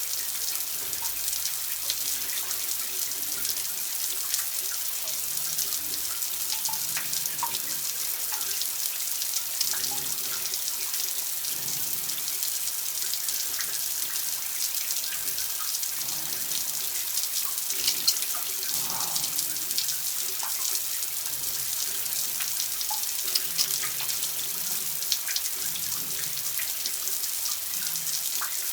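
Water running steadily from a tap, a continuous splashing hiss with scattered small drips and splashes.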